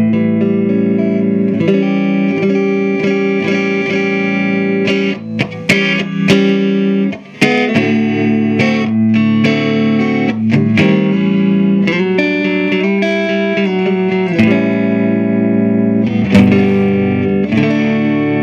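Electric guitar played through an Earthquake Engineering Atlas15, a 15-watt cathode-biased EL84 valve amplifier. Chords are strummed and left to ring, with sharp pick attacks and a brief let-up about seven seconds in.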